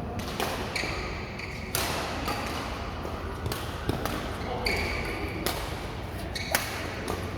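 Badminton rackets striking a shuttlecock in a rally: sharp hits about a second apart, some with a short ringing ping from the strings, in a reverberant hall.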